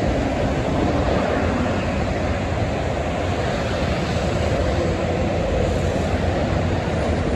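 Steady roar of heavy highway traffic, trucks and cars passing with continuous tyre and engine noise.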